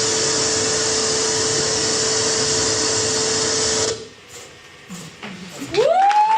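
Harsh electronic noise with a steady hum under it, which cuts off suddenly about four seconds in. Scattered clicks follow, then a pitched tone that rises and holds near the end.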